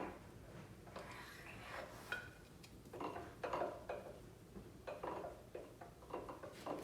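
Metal parts and hand tools being handled on a metal lathe, giving irregular light clinks, knocks and scrapes.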